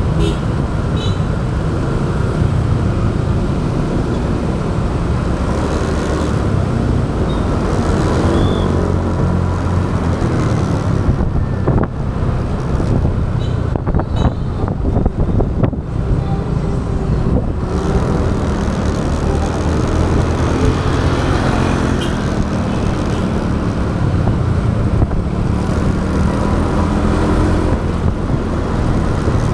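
Motorbike engine running steadily under way, its pitch rising and falling with changes in speed, with wind rush and road noise on the action camera's microphone.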